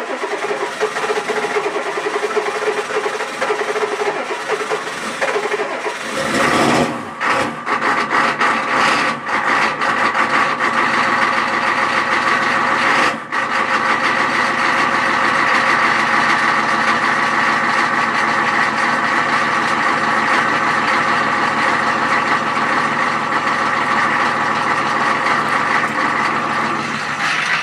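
Ford 6.9 L IDI V8 diesel cold-starting in freezing weather: about six seconds of steady cranking, then the engine catches and runs unevenly with dips and stumbles. About halfway through it settles into a steady idle.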